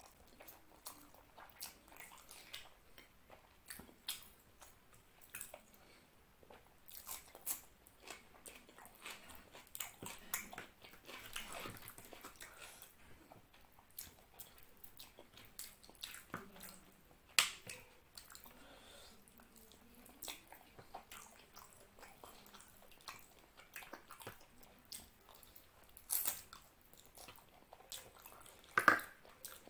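Close-miked eating of mutton curry and rice by hand: chewing and wet mouth noises with many small clicks, and fingers squishing curry-soaked rice. A few sharper clicks or smacks stand out, the loudest about 17 seconds in and near the end.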